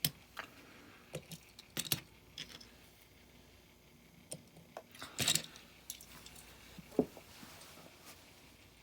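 Scattered light clicks and clinks of a small diecast toy truck being handled and set down, with a louder clatter about five seconds in and a sharp tap about seven seconds in.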